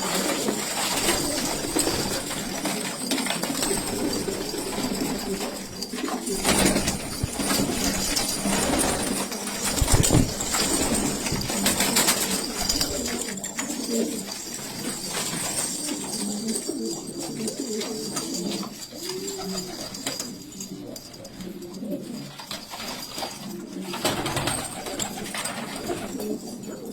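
Domestic pigeons cooing, a run of low rolling coos throughout. A few short noisy bursts break in, the loudest a thump about ten seconds in.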